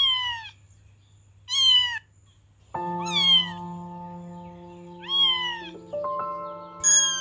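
A cat meowing five times, each meow about half a second long and falling in pitch. Music with held chords comes in just under three seconds in.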